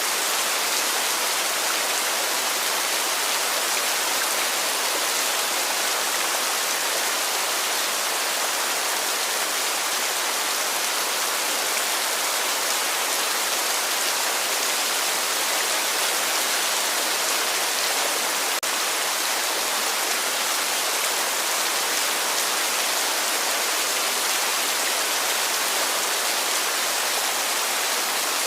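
Heavy rain falling in a steady, even hiss with no letup.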